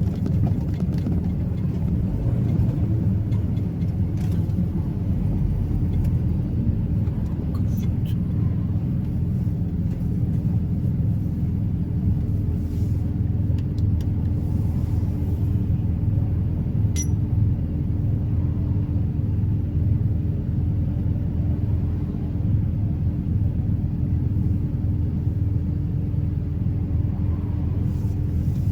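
Truck on the move: steady low engine and road rumble with a constant drone, and a few faint clicks.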